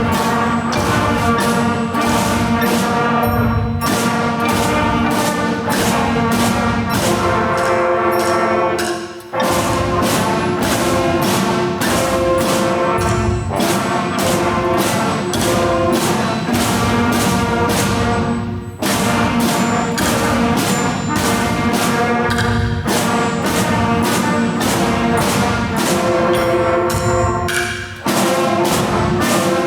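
A student band playing a brass-led piece, with held chords over a steady beat of about two strikes a second. The beat stops briefly three times, about 9, 19 and 28 seconds in.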